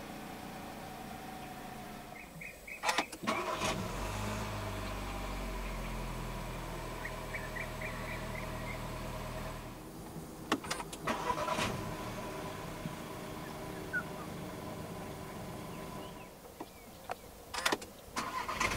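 Engine start-ups from the driver's seat. First a few clicks, then about four seconds in a 2022 Perodua Alza 1.5's engine starts and runs steadily. After a cut near ten seconds come clicks and a Volkswagen Tiguan Allspace 1.4 TSI starting and running steadily, and near the end more clicks as a second Tiguan Allspace is started.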